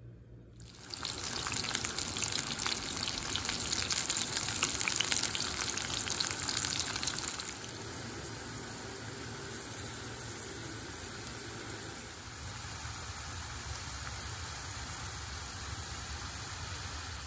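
Bitter gourd slices sizzling and crackling in hot frying oil, starting about a second in. A loud, dense crackle gives way about halfway through to a quieter, steady sizzle.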